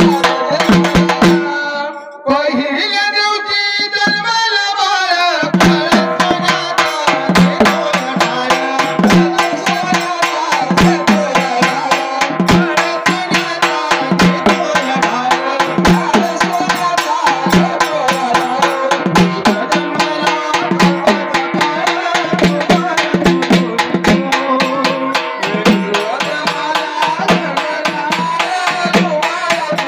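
Marathi folk devotional music for a cradle song (pāḷaṇā): a fast, even hand-drum rhythm over steady sustained tones. The rhythm breaks off briefly about two seconds in, a wavering held note fills the gap, and the drumming resumes.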